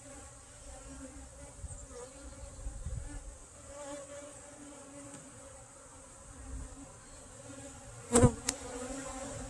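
Honeybees buzzing steadily around an open hive, a continuous hum. About eight seconds in there is one sharp knock.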